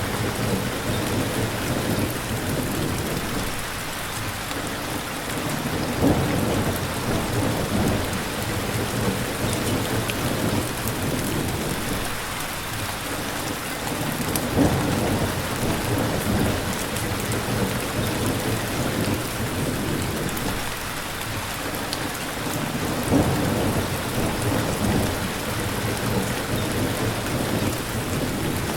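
Steady heavy rain falling on surfaces, with low rumbles of thunder swelling and fading underneath.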